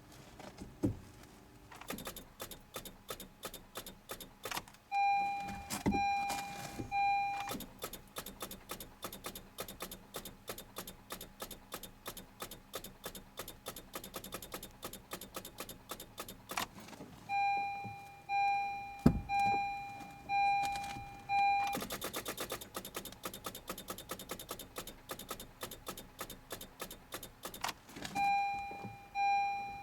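Honda CR-Z failing to start in extreme cold: a steady run of rapid clicks, about three a second, from the car. The car's warning chime beeps in short runs of repeated tones three times, and a brief hiss comes about two-thirds of the way in.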